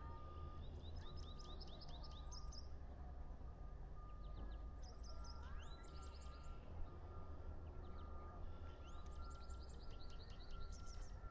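A bird calling in three bouts of rapid, high chirps, each about two seconds long, over a low steady hum.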